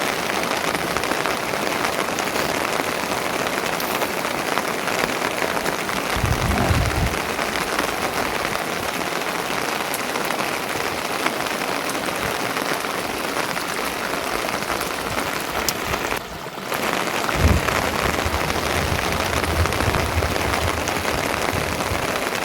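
Steady rain falling, an even hiss, with low rumbles around seven seconds in and again near the end; the sound dips briefly about sixteen seconds in.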